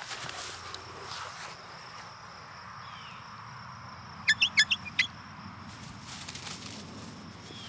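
A bird gives a quick run of five or six sharp, high chirps about four seconds in, over a steady outdoor background. Fainter single calls come before and after.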